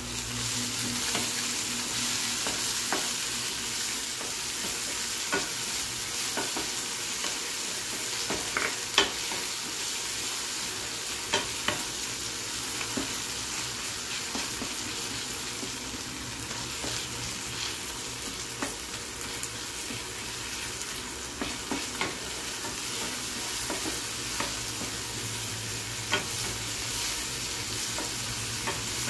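Chopped onions and tomatoes sizzling in hot oil in a non-stick pan while being stirred with a wooden spatula, with a steady sizzle and scattered sharp taps and scrapes of the spatula against the pan.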